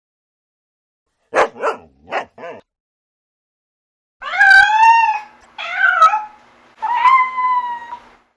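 A dog barks four times in quick succession, then a cat meows three times. Each meow lasts about a second and rises then falls in pitch.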